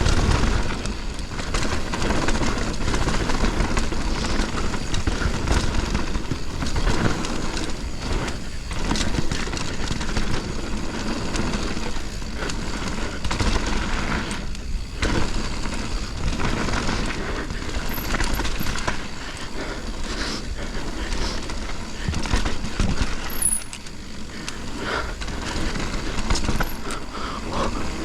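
Mountain bike riding fast down a dirt trail: tyre noise and the clatter of the bike over bumps, with wind buffeting the microphone throughout.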